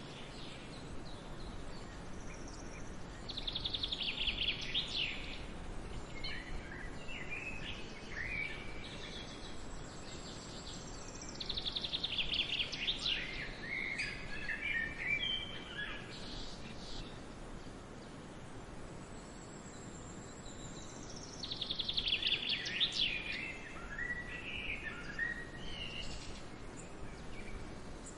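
A songbird singing the same short song three times, roughly every nine seconds: a fast high trill ending in a few quick chirps. A steady outdoor hiss runs under it.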